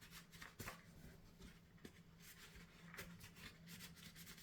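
Faint, scattered rubbing and light taps of a towel wiping a plastic washing-machine detergent drawer, over a low steady hum.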